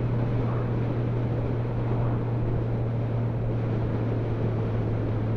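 Motorcycle running at a steady cruising speed, a constant low engine drone mixed with wind and road noise.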